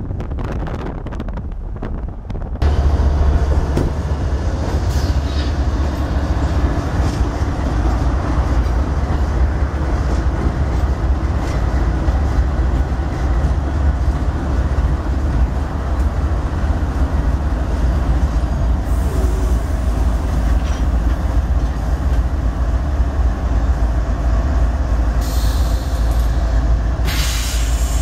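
Union Pacific diesel locomotives rolling past at close range: a steady, heavy engine rumble with the noise of wheels on rail. It starts suddenly about two and a half seconds in, after a stretch of wind noise on the microphone.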